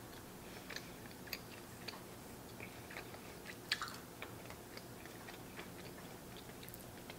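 Faint close-miked chewing of a mouthful of bacon cheeseburger: soft, irregular mouth clicks and smacks, one louder about three and a half seconds in.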